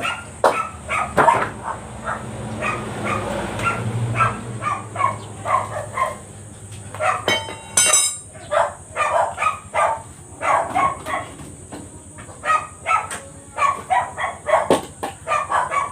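A dog barking over and over, in quick irregular runs of short barks.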